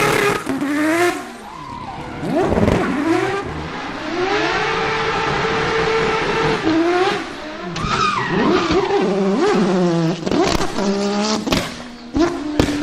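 Drift car's engine revving hard, rising and falling several times, over tyre squeal, with sharp cracks from the exhaust near the end.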